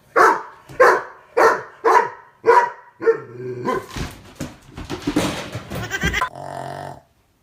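Two cats squabbling over a cat bed: five short, loud cries about half a second apart, then a harsher, noisier stretch of cries.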